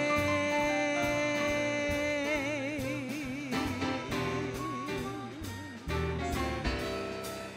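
Small swing jazz band of trumpet, piano, drums and bass playing the closing bars of a song. A singer holds a long final note over the band; about two seconds in it breaks into a wide vibrato and fades. Drum hits and bass notes carry on beneath.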